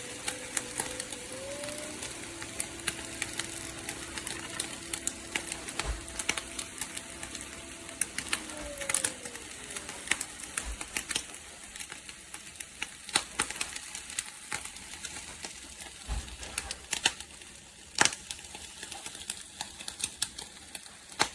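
Nespresso Vertuo Next coffee machine running a cycle with no capsule in it. A steady hum steps up in pitch about a second and a half in and dies away at around nine seconds, with crackling and clicking throughout.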